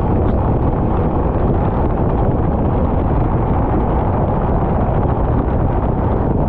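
Loud, steady rumbling wind buffeting on a kart's onboard camera microphone while the kart is driven around the track, with no distinct engine note standing out.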